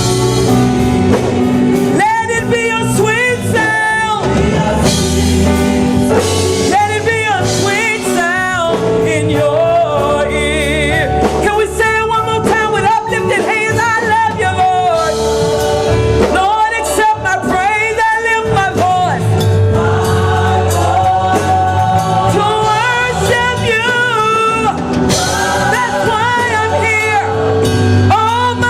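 Gospel praise team singing with instrumental backing: sung phrases rise and fall over sustained chords and a steady bass line.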